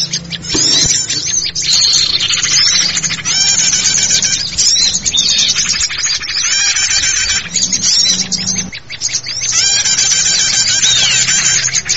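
Many small forest birds chattering together, a dense run of fast, high twitters and trills in bursts lasting a few seconds with short breaks; this is the kind of bird-lure recording used to draw small birds in.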